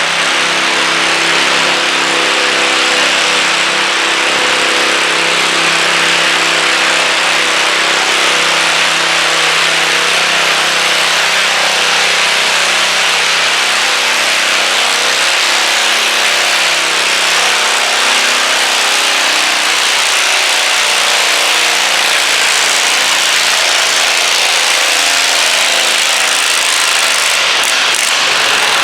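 Garden tractor engine running hard at steady high revs, pulling a weighted stoneboat, with the pitch holding fairly even throughout.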